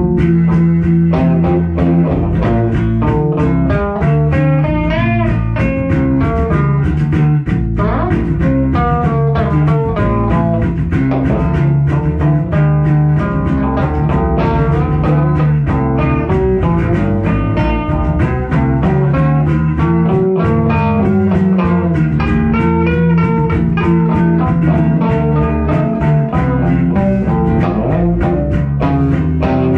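Blues-rock instrumental on electric guitar and bass guitar: a steady bass line under a lead guitar playing bent notes.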